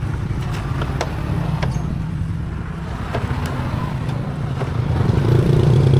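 Honda Dream's small single-cylinder four-stroke engine running with a steady low rumble, getting louder about five seconds in as it picks up revs.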